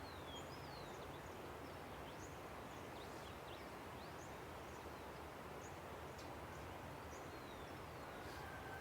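Steady rush of a river with many small birds chirping over it: quick high chirps and short falling whistles throughout, and a thin whistled note near the end.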